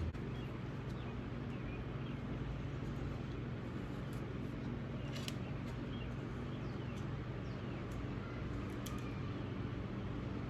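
Steady low hum with a few faint, light clicks and taps of small transmission parts being handled.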